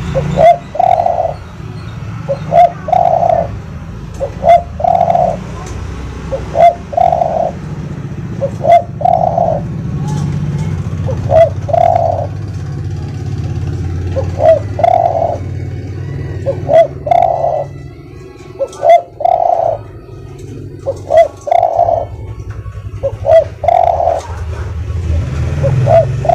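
Spotted dove cooing over and over, each phrase a short note or two followed by a longer held coo, repeating about every two seconds. A steady low rumble runs underneath.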